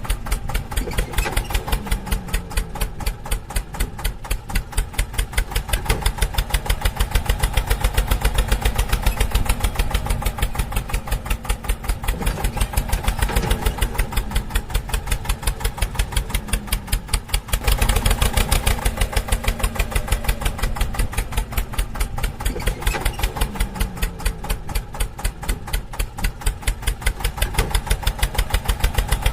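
Diesel tractor engine running at a steady idle with an even beat of about five pulses a second. The sound breaks and picks up again about two-thirds of the way through.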